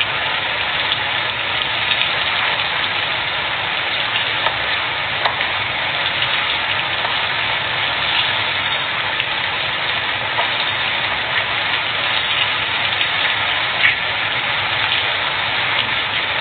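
Food frying in hot oil: a steady sizzling hiss with faint scattered pops.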